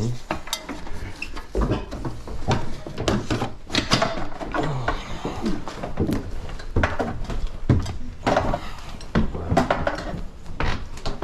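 A run of irregular knocks, clicks and clatter with rustling, the sound of gear being handled and someone moving close to the microphone.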